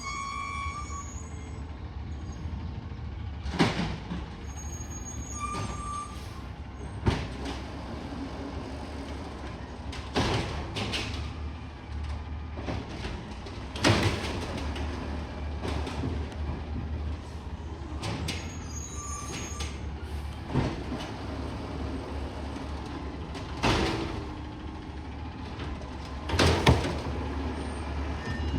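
Garbage truck running with a steady low engine rumble, with about eight sharp bangs or bursts a few seconds apart.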